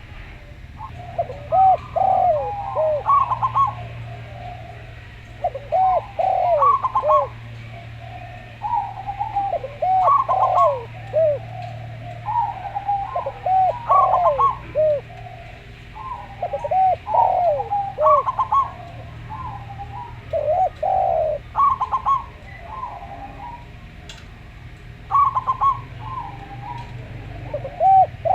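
Zebra doves (perkutut) and island collared doves (derkuku) cooing: short phrases of quick, rolling arched notes repeat every one to two seconds. A steady low hum runs underneath.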